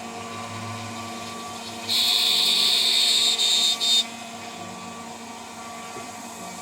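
CNC router spindle running steadily, with a 3 mm three-flute end mill at 14000 RPM. About two seconds in, the cutter bites into the workpiece with a loud, high-pitched screech for about two seconds, breaking off briefly twice before it stops.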